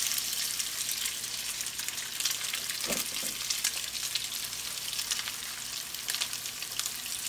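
Salmon patties frying in hot vegetable oil in a cast-iron skillet: a steady sizzle with crackling pops.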